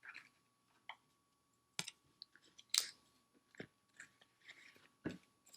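Cardboard packaging and a headphone case being handled: scattered soft clicks, taps and crinkles, with sharper knocks about two, three and five seconds in.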